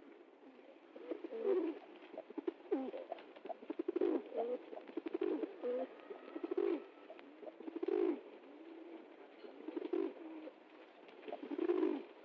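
Several pigeons cooing, their low calls overlapping and coming every second or so, with faint clicks in between.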